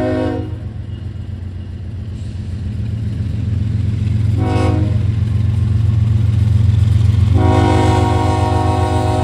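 Freight locomotive air horn sounding for a grade crossing: a held note cuts off just after the start, a short toot comes about four and a half seconds in, and a long blast begins near the end. Under it the diesel engines of the lead GE ES44C4 rumble, growing louder as the train approaches.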